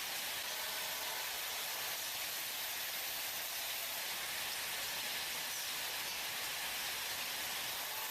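Steady, even hiss with no rhythm or distinct events.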